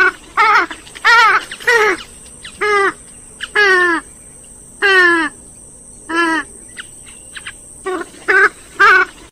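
Grey-headed swamphen calling: a loud series of about ten wavering calls, each falling in pitch, coming in uneven bursts with short gaps between them.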